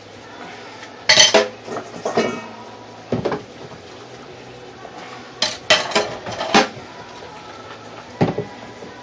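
Dishes and cutlery clinking and clattering while being washed by hand, in several short bursts with pauses between them.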